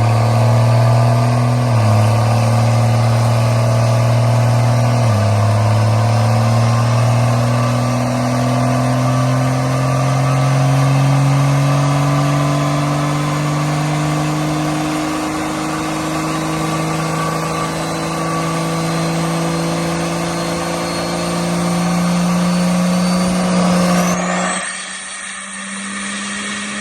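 Vehicle engine pulling under acceleration, its pitch dropping suddenly twice in the first five seconds as it shifts up, then climbing slowly and steadily for a long stretch in a higher gear. Near the end the engine's low note cuts out abruptly and a high tone sweeps up.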